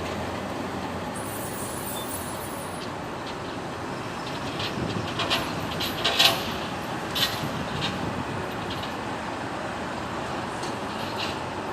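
Steady city street traffic noise, with a run of short sharp clicks and clanks in the middle, the loudest about six seconds in.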